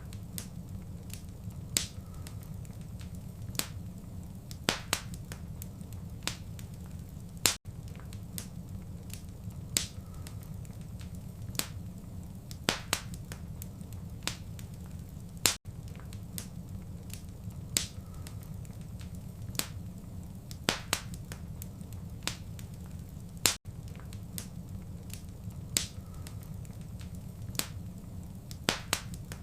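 Wood fire in a fireplace crackling, with frequent irregular sharp pops over a steady low rumble. There is a momentary dropout about every eight seconds.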